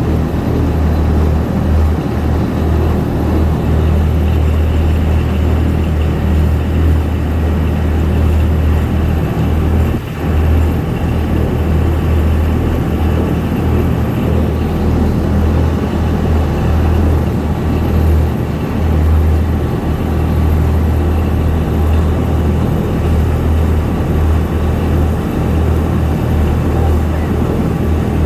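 Amphibious duck boat's engine running steadily as the boat cruises on the river, a constant low rumble.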